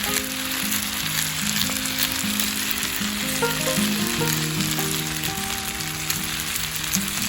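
Food sizzling and frying in a pan: a steady hiss with fine crackling, with background music playing melodic notes over it.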